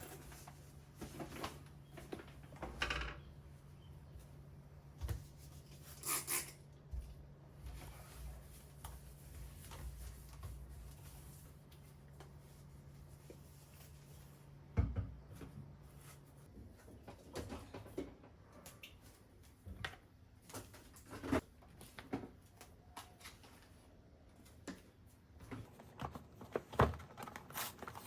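Groceries being put away in a kitchen: scattered knocks and clicks of packages set down and cupboard doors and drawers opened and shut. A steady low hum runs underneath and stops about halfway through.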